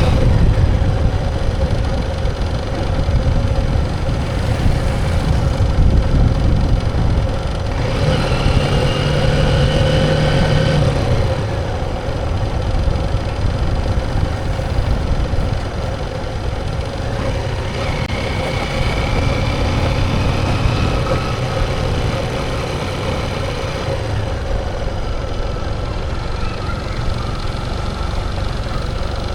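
Motorcycle engine running steadily, a continuous low rumble with a faint tone that drifts in pitch now and then.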